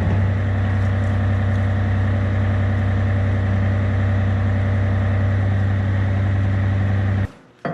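Yanmar excavator's diesel engine running at a steady idle, then cutting off suddenly near the end.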